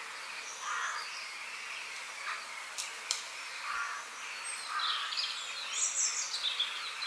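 Birds calling and chirping over a steady background hiss of forest ambience, with a flurry of high chirps near the end. Two light clicks about three seconds in.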